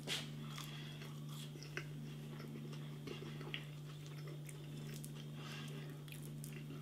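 Faint chewing of a fry, with small scattered mouth clicks, over a steady low electrical hum.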